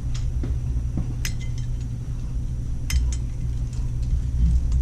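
A few sharp, light metallic clinks as small tools and brake caliper parts are handled on the bench, over a steady low hum.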